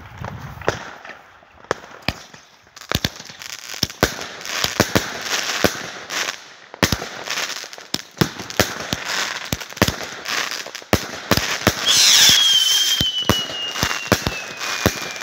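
Fireworks going off: many sharp, irregular bangs and crackles, and about twelve seconds in a firework whistle that slowly falls in pitch for several seconds.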